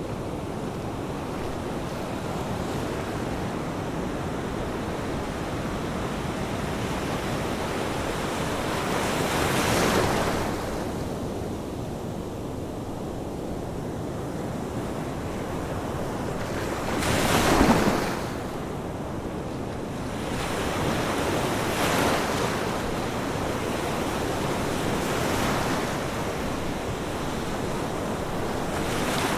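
Ocean waves washing onto a shore, a steady surf hiss with waves breaking every few seconds, the loudest crash a little past halfway.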